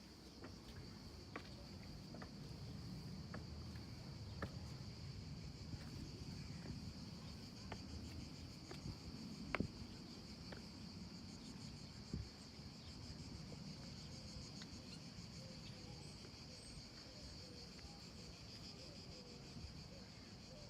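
Steady, high-pitched insect chorus, with a few faint, scattered ticks and taps over it.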